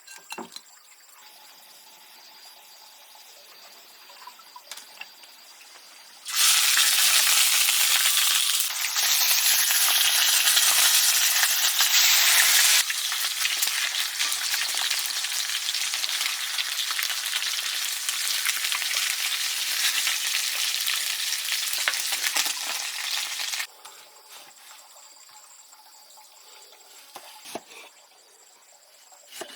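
A loud, steady sizzling hiss starts abruptly about six seconds in. It is loudest for its first several seconds, then runs on a little lower and cuts off suddenly a few seconds before the end. Faint clicks and rustles lie before and after it.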